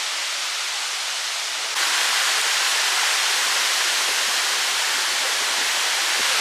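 Steady rush of a waterfall's falling water. It jumps abruptly louder and hissier about two seconds in.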